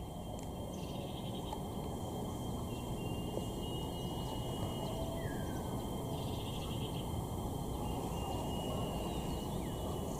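Faint outdoor ambience with a few short, falling bird chirps, one about five seconds in and one near the end, over a thin, steady high whistling tone and a low rumbling background.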